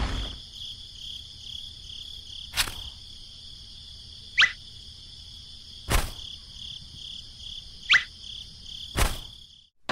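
A steady, high-pitched insect trill like crickets, broken by three sharp clicks and two short falling whistles.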